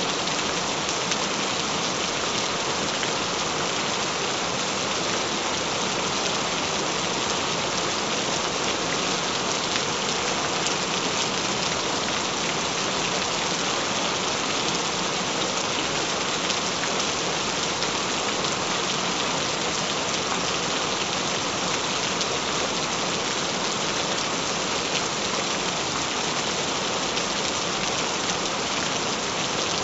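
Gentle rain falling steadily, an even hiss that does not change.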